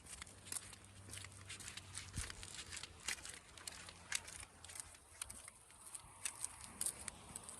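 Footsteps crunching on a dry dirt and gravel trail, a quick irregular run of crackles and clicks over a faint steady high hiss.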